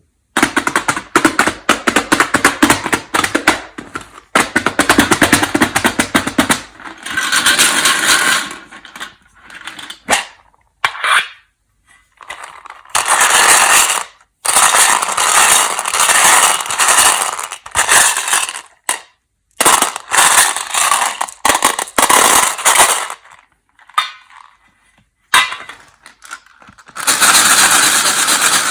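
Peanut M&M's candy pieces and their wrapper being handled. For about six seconds there is a dense, rapid clatter of many small hard hits. Then come several separate bursts of crinkly rustling, each a few seconds long, with short pauses between them.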